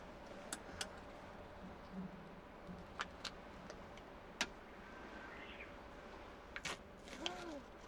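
A few scattered light clicks and taps, from an ice cream being handled and unwrapped, over a quiet, steady background.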